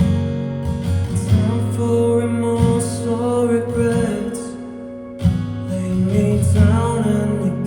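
A live band playing a slow song, with a singer over guitar and a steady low accompaniment; the music dips briefly about five seconds in and comes back in strongly.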